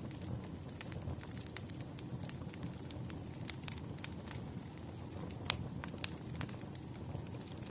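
Wood fire burning, with a steady low rumble and irregular sharp crackles and pops; the loudest snap comes about five and a half seconds in.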